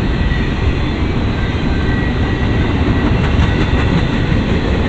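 Freight train passing close by: a steady heavy rumble of rolling cars, with wheels clicking over the rail joints.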